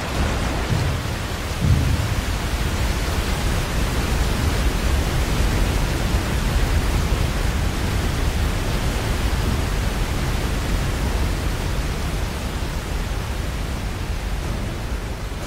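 Large waterfall pouring into its plunge pool: a steady, dense rush of water with a strong low rumble.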